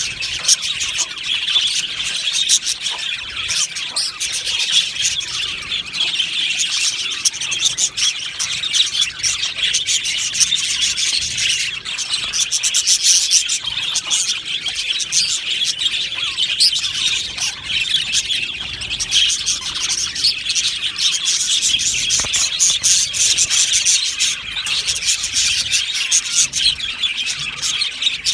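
A colony of budgerigars chattering and chirping together in an aviary, a steady dense mix of many birds' warbles and short calls.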